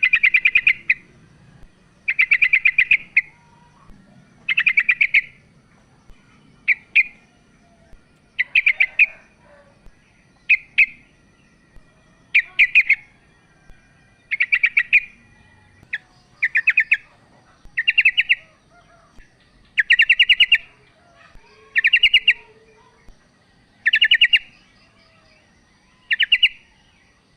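Female yellow-vented bulbul calling: loud, rapid chattering phrases about every two seconds, with short single notes between them, the call used to lure males.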